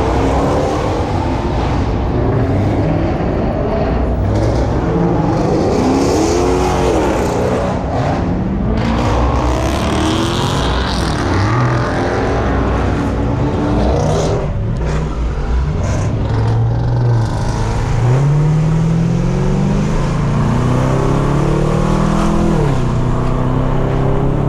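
Car engines running and revving, their pitch rising and falling again and again, with a deep exhaust rumble underneath.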